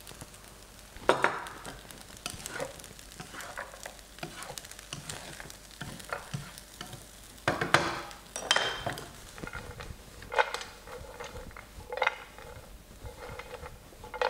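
Fried rice sizzling softly in a hot pan while a utensil stirs and tosses it, scraping and clattering against the pan in irregular strokes, the strongest about a second in and around the eight-second mark.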